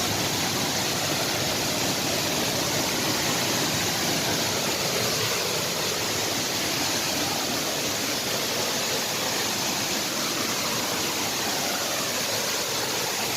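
Steady rush of flowing water, an even hiss without pauses or changes.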